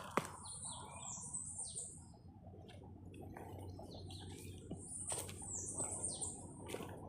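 A songbird singing two phrases of high, falling chirps, one near the start and another about five seconds in, over scattered soft footsteps on the trail.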